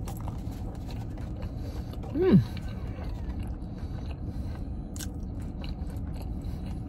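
A person chewing a mouthful of burger and fries, with small wet mouth clicks, and a short hummed "mm" falling in pitch about two seconds in. A steady low hum runs underneath.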